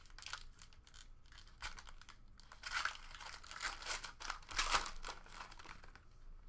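Trading cards and their foil pack wrappers being handled: irregular crinkling and rustling, loudest about three seconds in and again just before five seconds.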